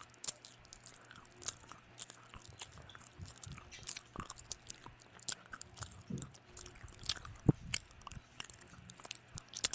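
A person chewing and biting food close to the microphone, with irregular sharp crunches and mouth clicks.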